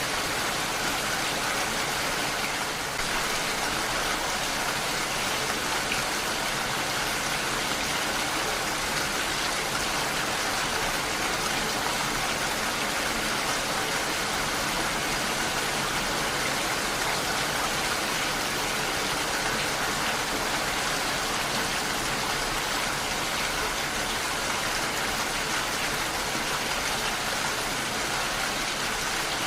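Heavy rain falling steadily, an even hiss of rain with no distinct drops or breaks.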